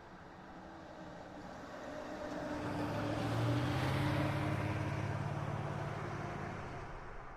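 A tractor's diesel engine passes close by. It grows louder, is loudest about three and a half to four seconds in, then fades away.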